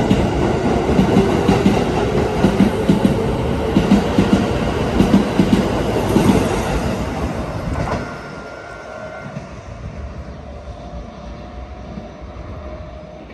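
A Keikyu electric train running past close by, its wheels clattering over the rail joints. About eight seconds in the sound drops away abruptly to a much quieter trackside background.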